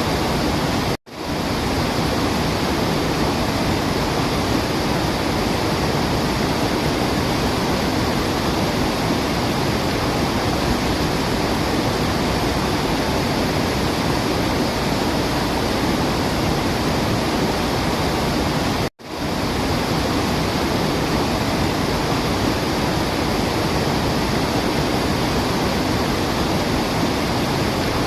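Waterfall rushing in a steady, even roar of falling water. It cuts out for a split second twice, about a second in and again near the middle.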